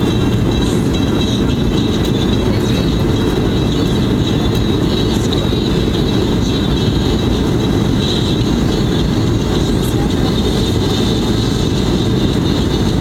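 Steady cabin noise of a Boeing 737-800 on approach: a loud, even rumble of its CFM56 engines and the airflow, with a thin high whine on top.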